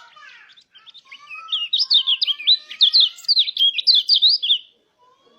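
Pleci (white-eye) singing a fast run of high, sweeping chirps for about three seconds, then stopping abruptly.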